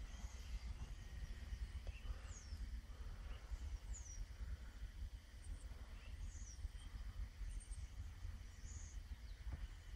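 Several short, high chirps of a small bird, each falling in pitch, spaced a second or two apart, over a low steady rumble.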